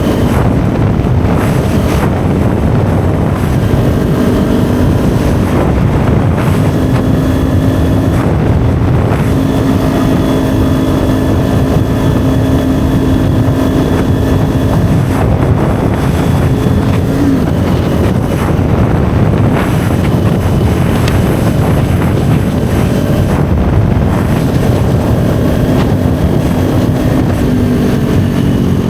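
Kawasaki Ninja 400's parallel-twin engine running while riding, its steady note drifting slightly up and down under heavy wind noise on the microphone.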